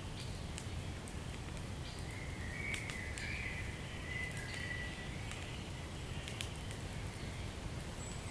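Wood fire in a fireplace crackling, with scattered sharp pops over a low steady rumble and a thin, wavering whistle in the background.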